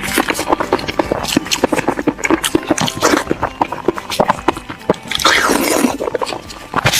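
Close-miked chewing and lip-smacking on braised pig's head: a rapid, irregular run of wet clicks and smacks, with a brief hissing slurp about five seconds in.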